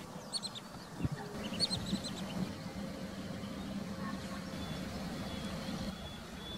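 Birds giving short, high chirping calls in two quick runs of four or five notes in the first two seconds, over a steady low drone. A thin, steady high whine comes in during the second half.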